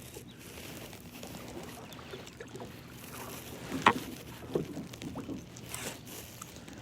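Kayak being paddled: paddle strokes in the water, with a sharp knock about four seconds in, likely the paddle striking the hull, and a couple of softer thuds after it.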